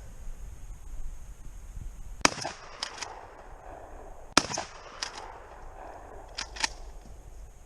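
Two 12-gauge shotgun blasts about two seconds apart, each followed by fainter sharp cracks, with two more faint cracks near the end. The shots hit the boat without setting off the tannerite target: no explosion follows.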